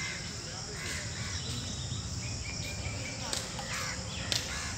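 Outdoor ambience: a few short bird calls over a steady low rumble.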